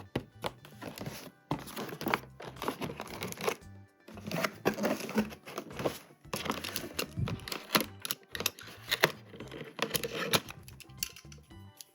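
Toy packaging being opened by hand: crinkling and tearing in several stretches, with sharp clicks and light knocks. Background music plays under it.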